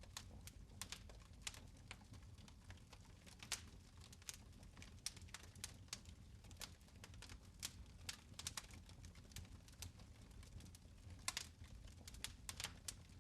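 Fireplace fire crackling: quiet, irregular sharp pops and snaps, a few each second, over a low steady rumble.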